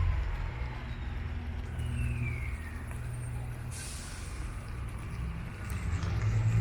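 City street traffic: a heavy vehicle's engine runs with a steady low rumble, a brief falling whine about two seconds in, and a short hiss of air brakes about four seconds in.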